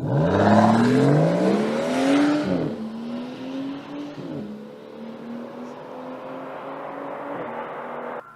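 BMW M760Li's twin-turbo V12 accelerating hard, its pitch climbing for about two and a half seconds before dropping at an upshift. It then pulls on more gently, with a second shift about four seconds in, until the sound cuts off just before the end.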